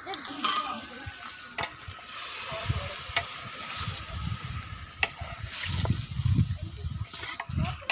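Chicken curry frying and sizzling in a pan while it is stirred, with a few sharp clicks.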